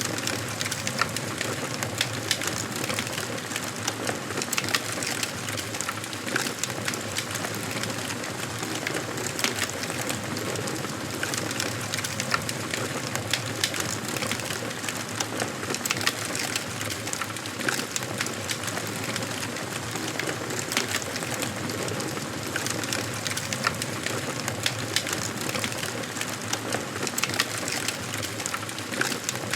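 Wood fire burning in a fireplace: a steady rush of flame with dense, irregular crackling and snapping of the burning logs throughout.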